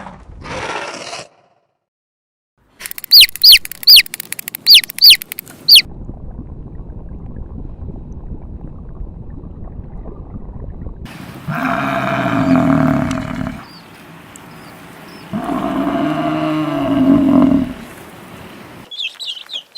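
A sequence of animal calls: about six sharp, high chirps in quick succession, then, after a stretch of low background noise, two long, loud, drawn-out low calls of about two seconds each.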